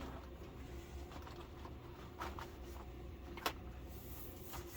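A few light clicks and taps from a thin plastic Fresnel lens sheet being handled and laid into an LCD TV's backlight frame, the sharpest about three and a half seconds in, over a steady low hum.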